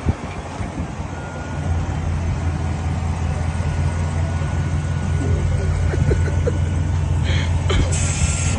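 Hydraulic wheelchair lift's pump motor running with a steady hum, coming up about a second in, as it raises the wheelchair platform, with a faint thin whine over it.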